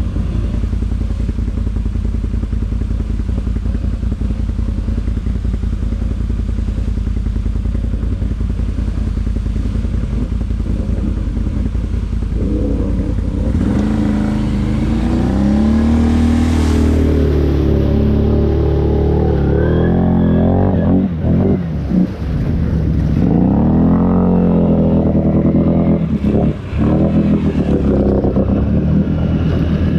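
ATV engine running at a steady low speed, then from about halfway revving up and down over and over, with two brief drops in level late on.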